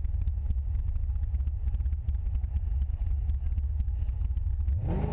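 Camaro's engine idling close to the microphone with a rapid, uneven beat; just before the end the revs start to climb as the car pulls away.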